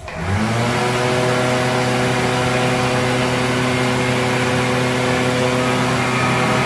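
World Dryer electric hand dryer switching on: its motor spins up in the first half second, then runs steadily with a low hum under a loud, even rush of air.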